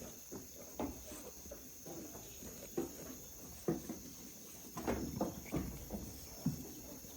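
Steady high chirring of night insects such as crickets, with irregular short knocks and rustles scattered through it.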